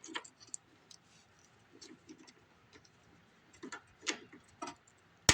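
Vise grips clicking and tapping on a seized bolt head as they are fitted and worked to break it loose: scattered light metal clicks, with a sharp, louder click at the end.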